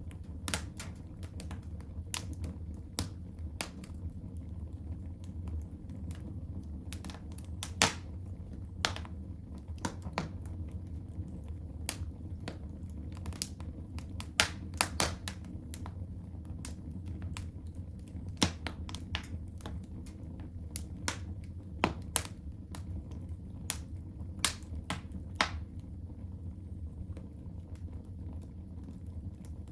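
Fire crackling in a home fireplace: irregular sharp pops and snaps, a few much louder than the rest, over a steady low rumble.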